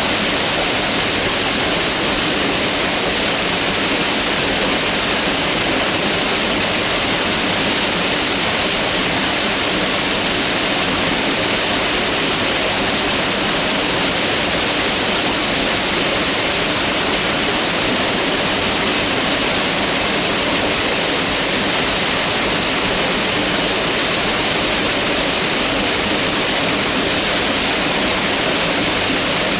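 Mountain river rushing steadily, an even, unbroken hiss of fast-flowing water.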